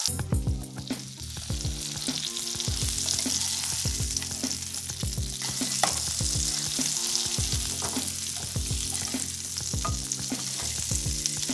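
Ahi tuna steak searing in hot olive oil and butter in a pan, a steady sizzle. Under it runs electronic background music with a steady beat and a stepping bass line.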